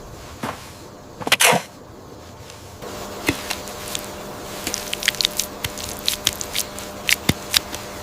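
A few knocks, the loudest about a second and a half in, then from about three seconds in a run of quick, sharp clicks and taps.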